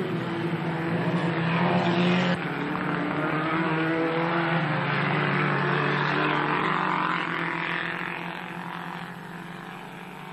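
Autocross saloon-car engines running hard at racing speed on a dirt track. The sound breaks off suddenly about two seconds in, then fades over the last couple of seconds as the cars draw away.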